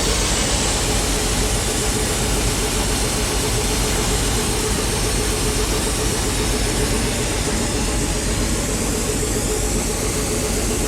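Mazzotti high-clearance self-propelled crop sprayer running steadily, a constant engine hum with an even hiss over it; a faint high whine bends in pitch near the end.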